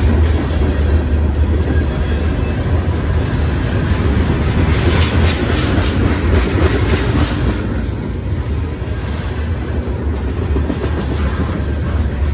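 CSX freight train's tank cars and covered hoppers rolling past close by: a steady, loud rumble of steel wheels on the rails with faint clacks over the rail joints.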